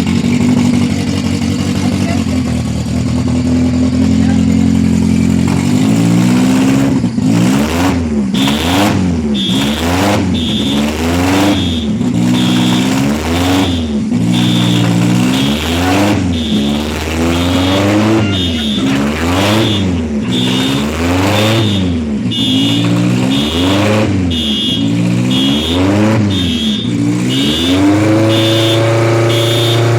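Honda B20B 2.0-litre four-cylinder engine in a Fiat Uno on its first start-up, idling steadily at first, then blipped repeatedly, rising and falling in pitch about once every second and a bit, before holding a steady higher idle near the end. A high beeping pulses on and off through the revving.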